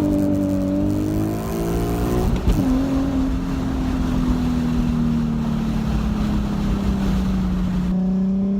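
Nissan Z's V6 running through an ISR exhaust with the stock Y-pipe while driving: the engine note climbs, drops with a gear change about two and a half seconds in, then holds steady and slowly eases.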